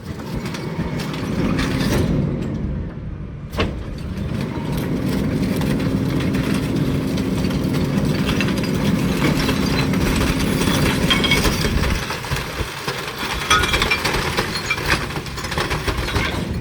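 McNeilus rear loader garbage truck running with its packer working, a steady hum from about five to eleven seconds in. There is a sharp knock early on, and clicks and creaks near the end.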